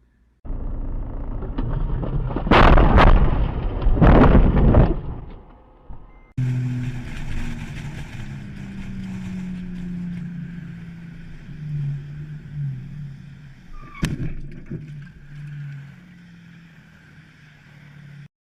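Vehicle collision caught on a dashcam: road noise, then two loud crashing impacts about a second and a half apart. After a cut, a vehicle engine runs steadily, with a single sharp knock partway through.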